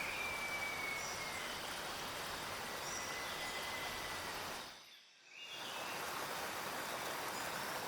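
Steady rushing of falling water from a strong waterfall. The sound fades out briefly about five seconds in, then returns. A faint high whistle falls slightly in pitch near the start.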